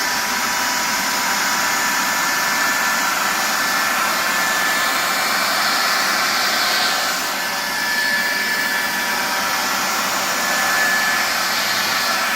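Cordless 20-volt Black & Decker blower running steadily: a high motor whine over a rushing blast of air.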